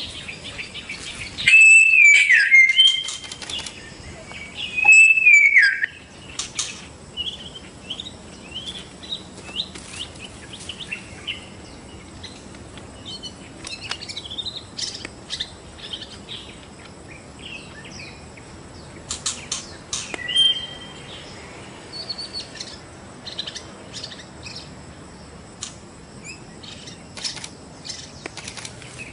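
White-rumped shama singing: two loud whistled phrases with gliding notes in the first six seconds, then a long run of softer chirps and sharp clicking notes.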